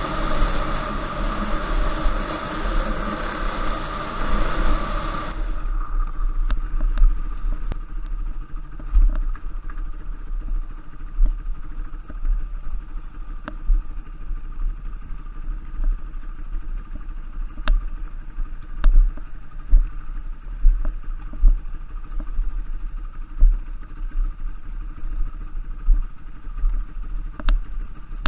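Dirt bike engine running steadily on a trail ride, heard through an on-board camera microphone with heavy low rumbling buffeting and scattered sharp clicks and knocks. About five seconds in the sound turns duller.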